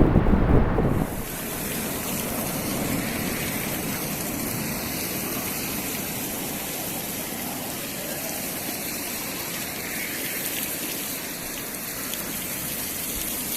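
Wind buffeting the microphone for about the first second, then the steady rushing wash of breaking ocean surf.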